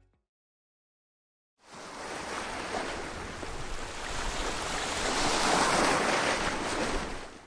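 Rushing, surf-like noise that begins after about a second and a half of silence, grows louder, then cuts off abruptly near the end.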